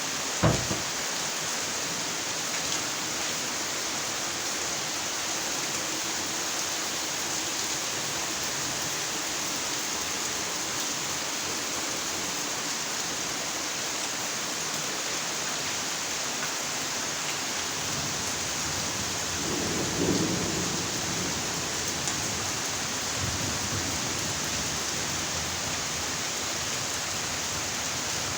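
Steady rainfall, a dense even hiss, with a low rumble of thunder about twenty seconds in. A sharp thump comes just after the start.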